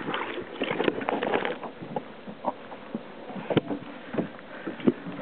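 Irregular knocks and water splashes on and around a kayak, busiest in the first second and a half, then single sharp knocks about three and a half and five seconds in.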